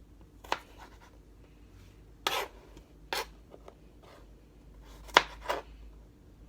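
Kitchen knife slicing a carrot into thin strips on a cutting board: five separate cuts at uneven intervals, each a short knock. The cut about two seconds in is drawn out a little longer than the others.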